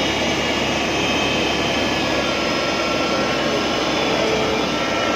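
Rice combine harvester running, a steady, even mechanical noise with no let-up.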